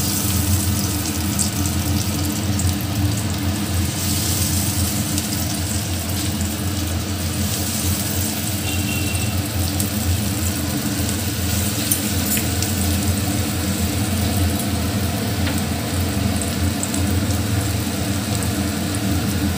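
Breaded patties sizzling and crackling in hot oil in a non-stick kadai, a steady hiss with fine pops, over a steady low hum.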